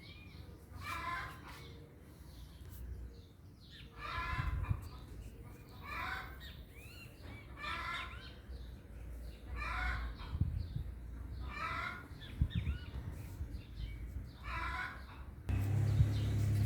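A bird calling over and over, a short call with a bending pitch about every two seconds. Near the end a louder, steady low rumble starts.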